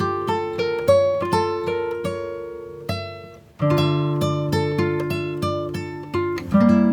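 Intro background music: plucked acoustic guitar playing a melody of ringing, decaying notes, which fades briefly about halfway through and then starts again.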